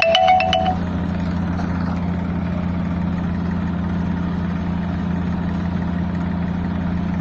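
Massey Ferguson tractor's diesel engine idling steadily with an even low hum. A short mallet-percussion jingle fades out in the first second.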